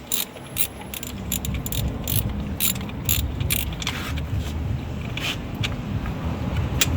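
Irregular metallic clicks and clanks of a hand tool working the engine's belt tensioner, pulling it back to release the A/C compressor drive belt, over a low rumble.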